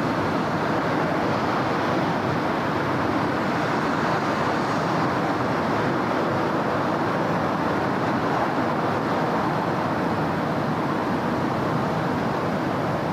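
Steady city traffic: a continuous wash of car and road noise with no single vehicle standing out.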